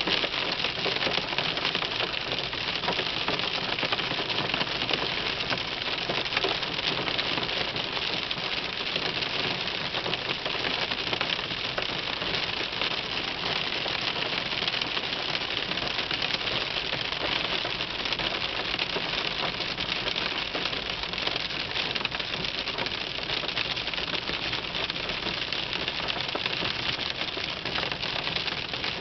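Hailstones falling steadily, a dense, even clatter of countless small impacts.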